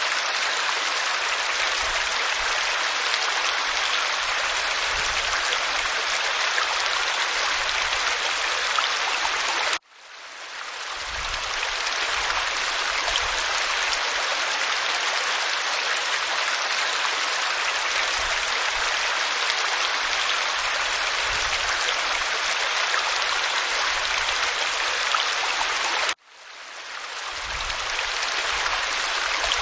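Waterfall pouring over rock, a steady hissing rush of water. It cuts out suddenly twice, about ten seconds in and again near the end, and fades back in over a second or two each time.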